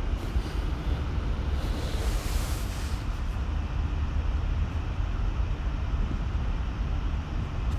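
A steady low rumble with hiss over it, and a brief brighter hiss about two seconds in.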